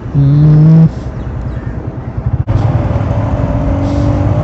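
Motor vehicle engine running in traffic, with a loud short tone like a horn blast near the start; the engine sound grows louder about halfway through.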